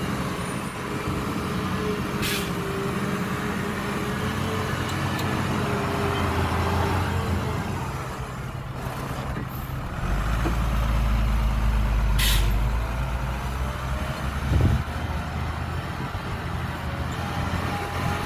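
Heavy diesel engines of a dump truck and bulldozer running, pulling deeper and louder for a few seconds past the middle. Two short air-brake hisses come from the truck, and there is a single knock toward the end.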